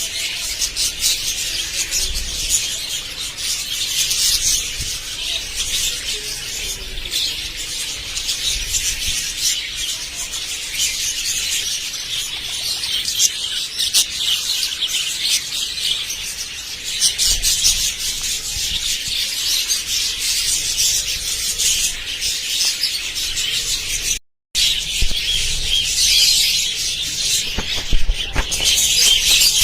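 A flock of budgerigars chattering and warbling continuously in dense, high twittering, broken by a brief silence about 24 seconds in.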